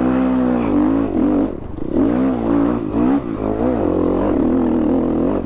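Dirt bike engine revving up and down several times as it is ridden, settling into a steadier pitch in the last second or so.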